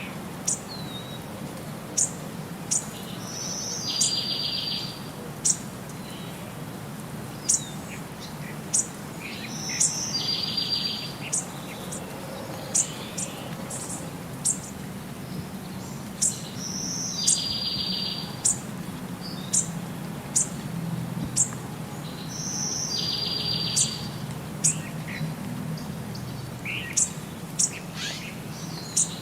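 Birds singing: frequent short, sharp high chirps, and about every six to seven seconds a repeated phrase, a short note followed by a rapid trill about a second long.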